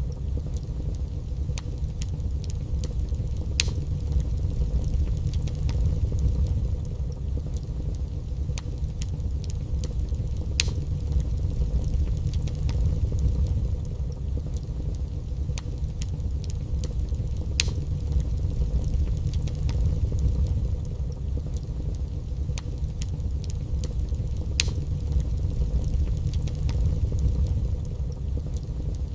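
Wood fire burning in a fireplace: a steady low rumble with sharp crackles and pops at irregular intervals, a few of them standing out louder every several seconds.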